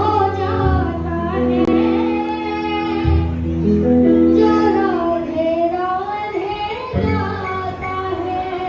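A Hindi devotional bhajan to Radha: a solo voice sings a gliding, ornamented melody over long held accompaniment notes.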